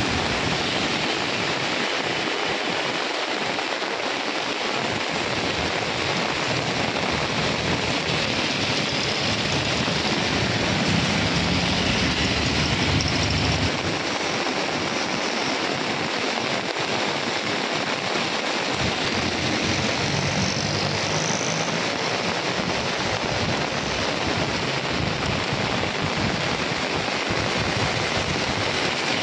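Heavy rain falling on a wet street: a steady hiss of rainfall. A deeper rumble swells for a few seconds near the middle.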